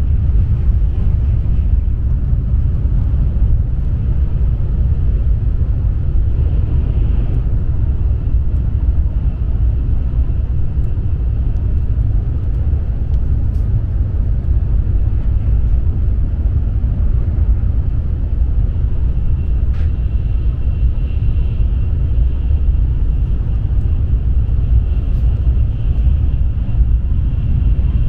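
Steady low rumble of an N700S Shinkansen train heard from inside its passenger cabin, even and unchanging, with a faint high steady tone over it.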